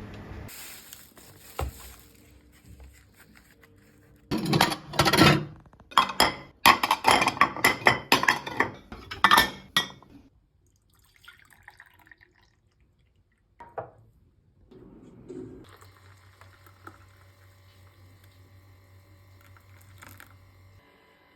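Glassware and dishes clinking and rattling in a rapid, loud run of strokes, from about four seconds in to about ten seconds in. A faint steady hum follows near the end.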